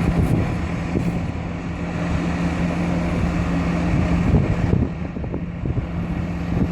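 A vehicle engine idling steadily, a constant low hum with rumble beneath it, with wind buffeting the microphone.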